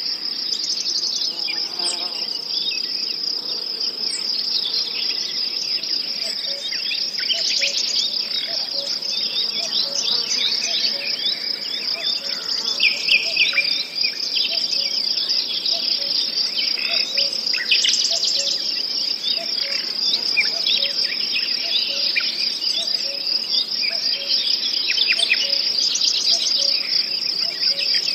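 Nature-sounds ambience: crickets trilling steadily in a high, even band, with scattered bird chirps over it. From about halfway a soft low note repeats roughly once a second.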